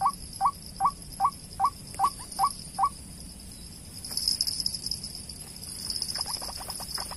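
White-breasted waterhen call: a rapid run of identical short notes, about two and a half a second, that stops about three seconds in. A steady high-pitched buzz runs underneath.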